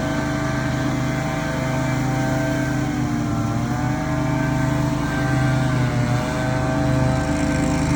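Petrol engine of commercial lawn-care equipment running steadily at high speed, its pitch sagging briefly twice as it takes load.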